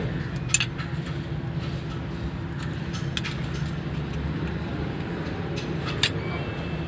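A vehicle engine running steadily at idle, with three sharp metallic clicks spaced a few seconds apart.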